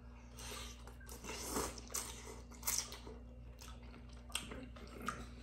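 Close-miked eating: a run of irregular, short chewing and biting sounds with some crunch, over a faint steady hum.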